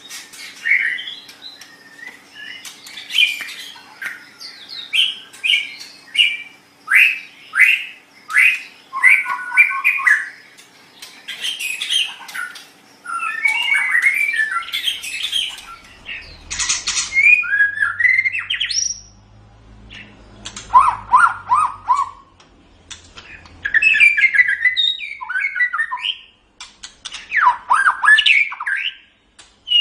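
White-rumped shama (murai batu) singing a long, varied song: rapid runs of whistled and chattering phrases, some rising and falling, with short pauses between bursts.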